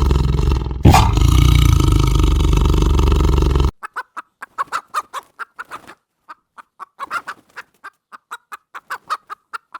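A loud, rough, continuous sound with a sharp peak about a second in, which cuts off abruptly a little under four seconds in. Then comes a run of short clucking calls from domestic fowl, several a second, irregular and with brief gaps.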